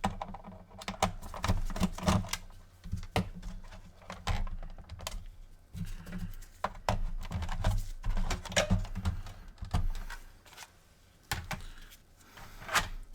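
Irregular small clicks, taps and knocks of plastic and metal parts being handled while an original PS4 is taken apart to lift out its motherboard.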